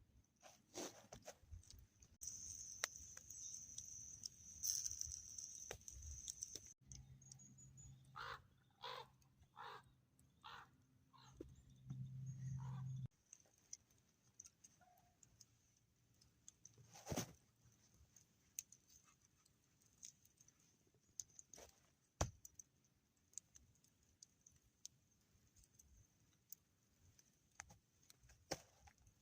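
A bird calling, about six short calls in quick succession, about eight seconds in. Faint scattered clicks sound through the quiet.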